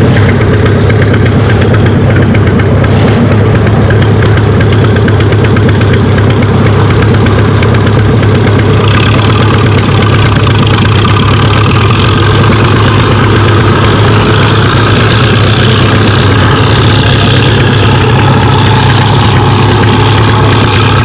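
Tractor engine idling steadily close by, a loud even low hum. A higher hiss grows louder about nine seconds in.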